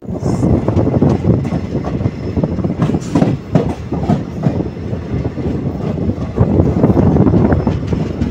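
Passenger train running, its coach wheels clattering and knocking on the rails, with a constant rumble of the carriages.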